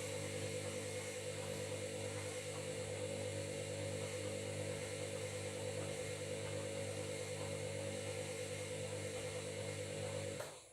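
Washing machine running steadily with its drum turning at a constant speed, a whirring hum made of several fixed tones. It cuts off suddenly near the end.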